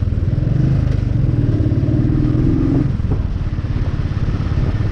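Royal Enfield Bullet 350's single-cylinder engine running steadily while the motorcycle cruises on the highway.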